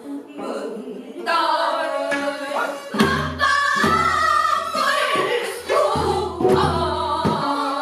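Several pansori singers singing together in sustained, bending lines, with a few low buk drum strokes about three, six and seven seconds in.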